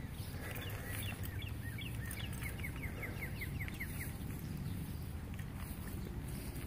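A small bird calling a quick run of repeated short chirps, about five a second, through the first half, over a steady low rumble.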